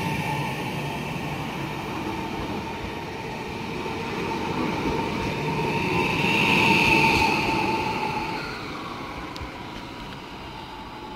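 Passenger multiple-unit train running past and pulling away: a steady rumble of wheels on rail with a sustained whine on top. It is loudest about six to seven seconds in, then fades as the train moves off.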